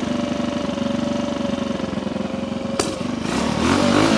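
Honda C200's small single-cylinder four-stroke engine idling steadily, with a sharp click a little before three seconds in, then revving up near the end.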